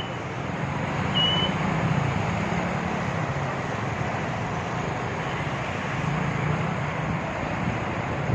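Steady rushing noise of heavy rain and overflowing water, with a low rumble underneath and one short high chirp about a second in.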